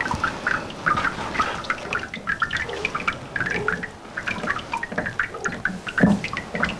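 Water splashing and dripping in many small, irregular bursts.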